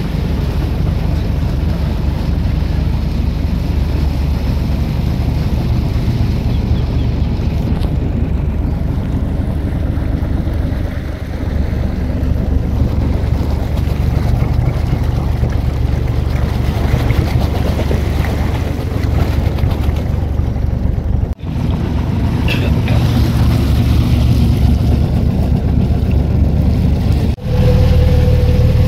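Small fibreglass passenger boat's engine running steadily under way, with wind and water noise over it. The sound drops out briefly twice, about two-thirds of the way through and again near the end.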